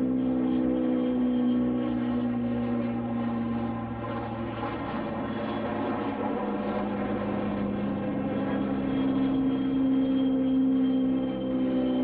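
Aircraft engines droning, a steady hum of several low held tones over a rushing noise. The hum dips in the middle and comes back stronger near the end.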